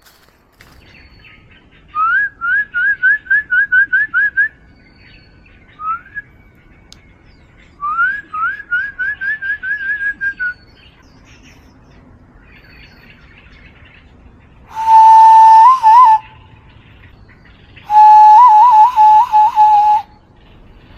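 Birds calling: two runs of quick rising whistled notes, about three or four a second. These are followed by two much louder steady whistles that break into short warbles at the end.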